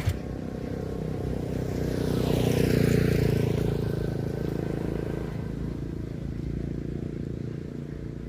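Motor vehicle engine running steadily, with a vehicle passing close by: the sound swells to its loudest about three seconds in, then fades.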